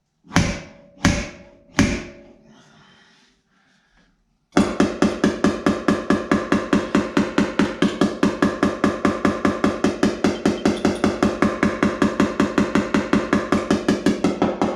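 Body hammer striking a truck's sheet-metal body panel: three single ringing blows in the first two seconds, then a quiet pause, then fast steady tapping of about five ringing blows a second as the metal is worked to move it.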